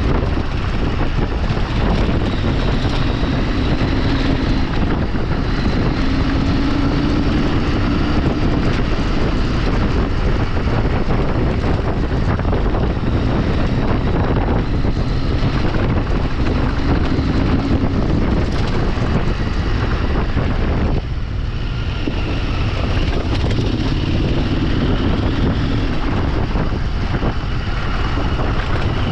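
Off-road motorcycle engine running under way, its pitch rising and falling as the throttle changes, with heavy wind buffeting on the microphone.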